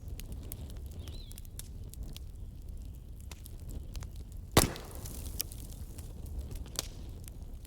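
Wood fire crackling: scattered small pops and ticks over a low steady rumble, with one sharp loud snap about four and a half seconds in and a couple of smaller ones after it.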